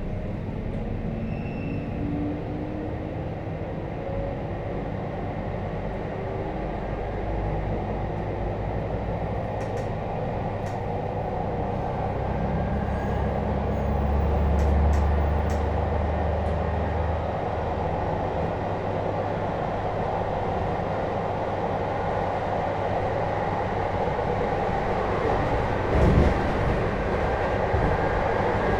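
Running sound inside a JR Hokkaido 721-series motor car with a Toshiba GTO-thyristor VVVF inverter. The inverter's tone climbs in pitch in the first few seconds and then fades. The car then runs on with a steady rumble of wheels and track, and a single sharp knock comes near the end.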